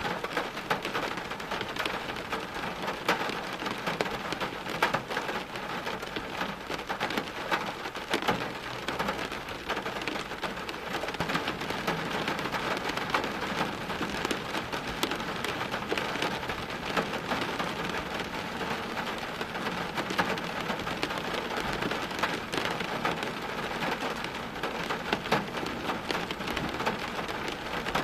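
Steady heavy rain: an even hiss dense with sharp, close drop ticks, with no break or change.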